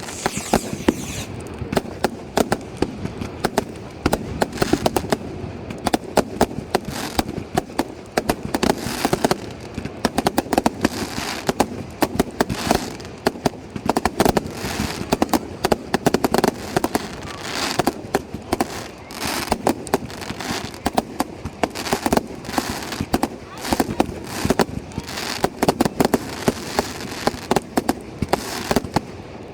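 Fireworks display going off: a dense, unbroken run of bangs and crackles, several a second.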